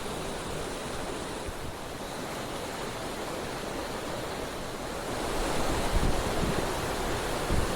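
Steady rushing of a waterfall, getting louder with a low rumble from about five seconds in.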